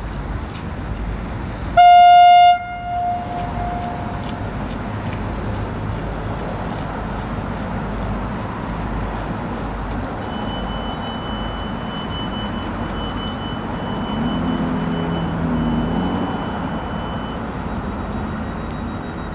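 A diesel train sounds one short, loud single-note horn blast about two seconds in. Its engine then runs steadily as it draws slowly toward the platform, and a thin high tone joins in past the middle.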